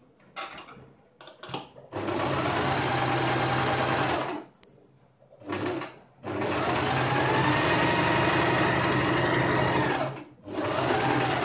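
Sewing machine stitching a seam in three runs, each speeding up at the start and winding down at the stop, with short pauses between them. Before the first run there are light clicks of fabric being handled.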